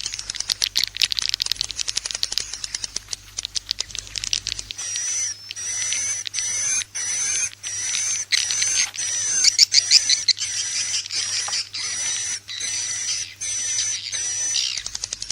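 Recorded edible-nest swiftlet calls, the kind played from a swiftlet house to call birds in. The first few seconds are rapid, densely packed twittering chirps. After that comes a steady run of buzzy chirring calls about a second apart, loudest about two-thirds of the way through.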